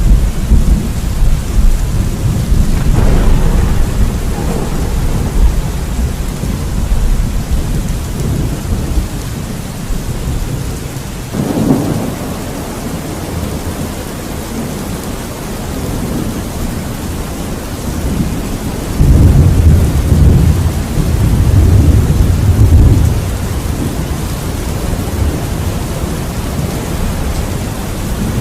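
Steady rain with rolling thunder: deep rumbles at the start fade out, a sharp crack comes about eleven seconds in, and a long loud rumble swells and rolls on for several seconds past the middle.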